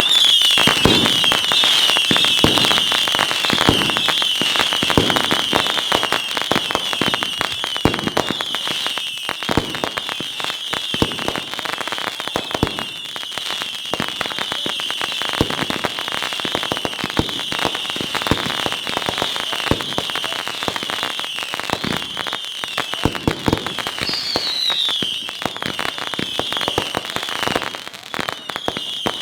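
Fireworks going off in a long, dense barrage of rapid crackling and popping over a steady high whistling. The barrage is loudest at the start and eases slightly later on. A higher falling whistle rises above it about four-fifths of the way through.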